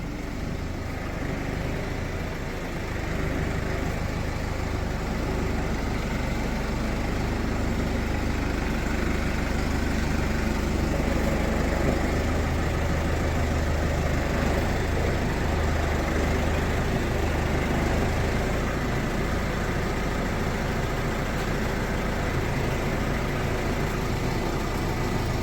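Tractor engine running steadily at low revs while the tractor manoeuvres, getting a little louder about three seconds in.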